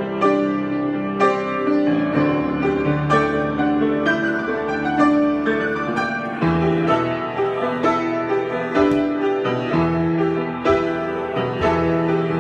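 Solo piano improvisation: notes and chords struck one after another at an unhurried pace, each ringing on and fading.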